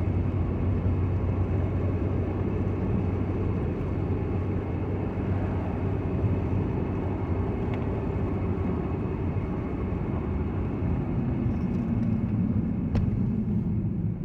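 Steady road noise inside a moving car's cabin: a low engine and drivetrain hum under the hiss of tyres on a wet road. There is a faint click about 13 seconds in.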